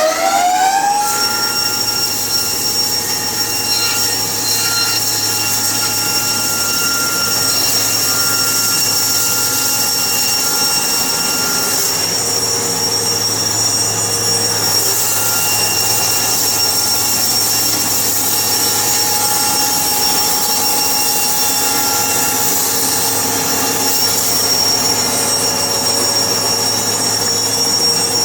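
Sawmill machinery whining up to speed, its pitch rising until about a second in, then running steadily at a constant pitch with a low hum underneath.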